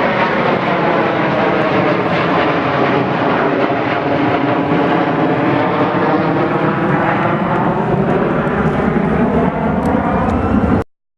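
Airplane flying low overhead: a loud, steady rushing noise that swells and shifts in pitch as it passes, then cuts off suddenly near the end.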